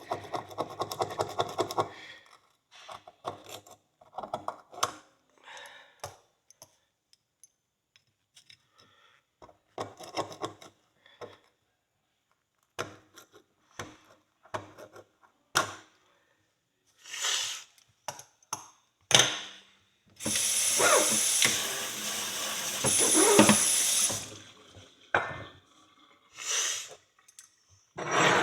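Pick scraping and tapping dried dirt out of a horseshoe in short, scattered strokes, then water running for about four seconds near the end as the shoe is rinsed.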